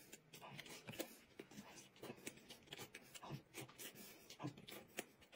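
Faint chewing and mouth clicks of someone eating a steamed bun with chili sauce: an irregular string of soft clicks.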